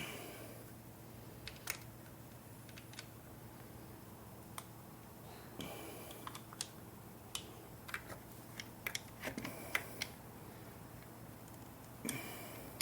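Scattered light clicks and taps of a hand tool working the bolts of a PCV valve on an engine, with a few short scraping bursts, as the bolts are snugged down by feel.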